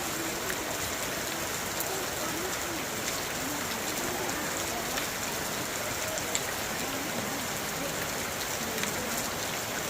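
Steady rain falling, an even hiss with scattered sharp drops striking nearby surfaces.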